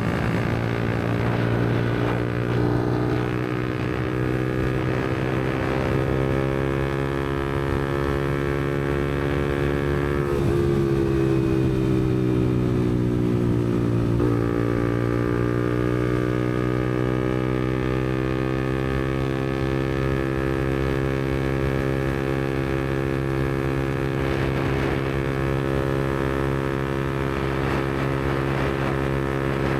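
Yamaha MT-125's single-cylinder 125cc four-stroke engine running through an aftermarket Black Widow exhaust while riding. The revs climb slowly, break off about ten seconds in and sink until about fourteen seconds, then climb again and hold steady.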